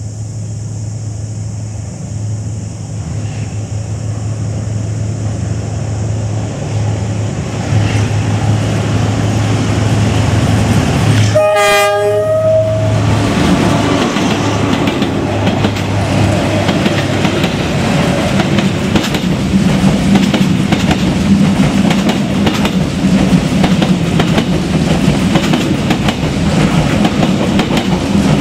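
A Vietnam Railways D19E diesel-electric locomotive approaching with a steady low engine hum that grows louder, then one horn blast about a second long near the middle. The loud rumble and clickety-clack of the locomotive and passenger coaches rolling close by follows.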